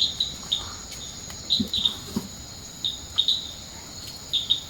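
Short, high bird chirps, often in pairs, recurring every second or so over a steady high-pitched insect drone.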